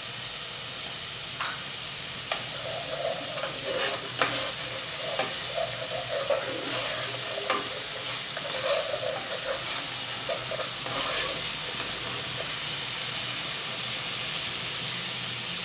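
Onion paste and ginger-garlic paste frying in hot oil in a nonstick pot, with a steady sizzle. A spatula scrapes and taps against the pot as the paste is stirred, the clicks scattered through most of the first ten seconds or so.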